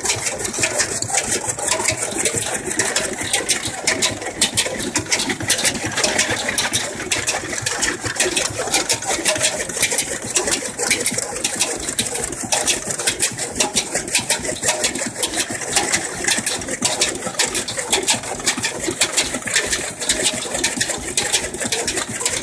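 Old engine of a toka (chaff-cutter) machine running steadily with a fast, even clatter of rapid ticks.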